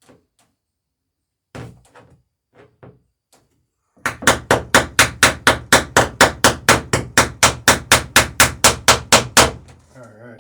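A hammer peening over a rivet in a wooden boat's lapped planking: a few light taps, then from about four seconds in a fast, even run of sharp hammer strikes, about five a second for five seconds, that stops short.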